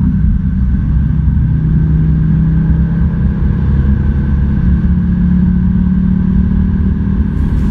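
Ford Focus RS Mk2's turbocharged 2.5-litre five-cylinder engine, on a Bluefin Stage 2 tune with a turboback exhaust, pulling hard at high speed, heard from inside the cabin. Its steady drone climbs slowly in pitch from about halfway in as the car gathers speed.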